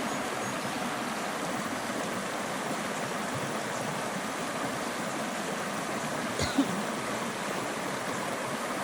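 Creek water flowing over rocks in a steady rush, with one brief sharp tap about two-thirds of the way through.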